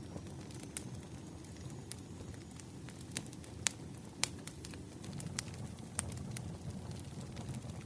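Campfire burning: a steady low rumble of flames with scattered sharp crackles and pops from the burning wood, the loudest two coming about halfway through.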